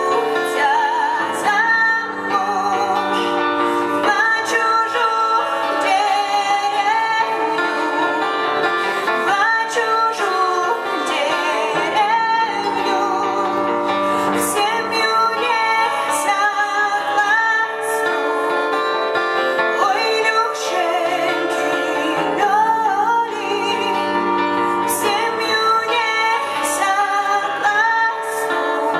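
A live band playing a song, with a woman singing a held, wavering melody over the instruments.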